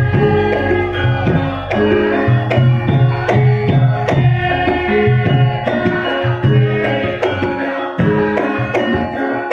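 Javanese gamelan ensemble playing, with held ringing metallophone tones under quick, busy hand-drum (kendang) strokes.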